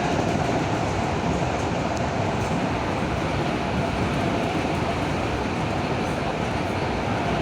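Electric commuter train running at speed: a steady rumble of wheels and running gear, with a steady whine on top.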